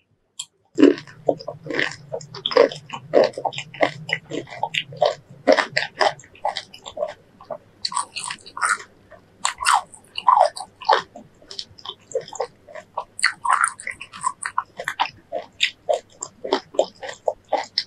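Close-miked biting and chewing of a fresh lime half: a dense, continuous run of wet, crunchy mouth sounds that starts about a second in.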